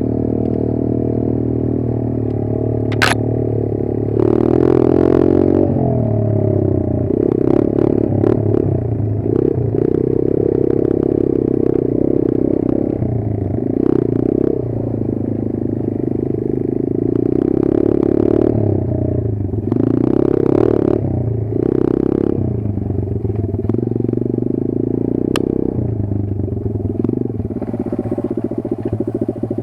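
Kayo 140 pit bike's single-cylinder four-stroke engine running under load, its revs rising and falling unevenly as it is ridden. There are bursts of clattering and scraping, and a sharp knock about three seconds in.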